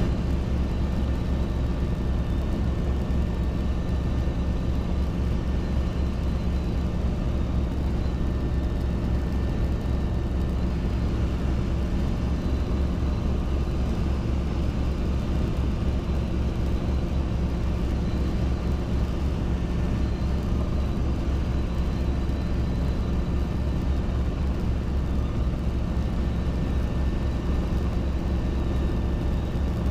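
Robinson R22 helicopter's four-cylinder Lycoming piston engine and rotors running steadily: a constant low drone with no change in pitch or level.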